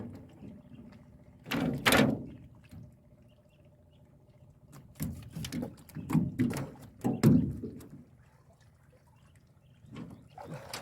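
Water splashing and pouring, with dull thunks, in three short bouts with pauses between: a fish trap being lifted and handled at the side of a small boat.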